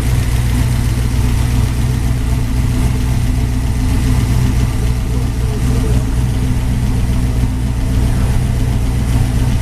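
Twin-turbocharged LSx 402 V8 in a 1970 Chevelle idling steadily on its first start-up.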